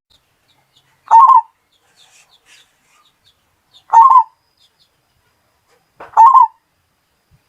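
Zebra dove (perkutut) cooing: three short, loud calls of quick rolling notes, one about every two and a half seconds. Faint high chirps from other birds sound between them.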